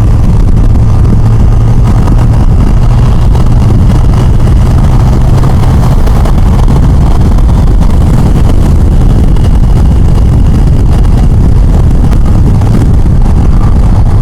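Yamaha FJR1300 motorcycle's inline-four engine running steadily under way, with wind and road noise, heard from the rider's position.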